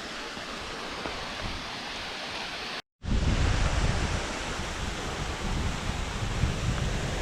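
Steady rushing of a waterfall, with wind buffeting the microphone. The sound cuts out briefly about three seconds in and comes back louder.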